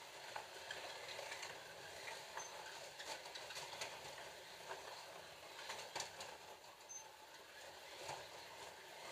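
Slot cars racing on a plastic track: a faint, steady whir of their small electric motors, with scattered clicks and rattles as the cars run over the track.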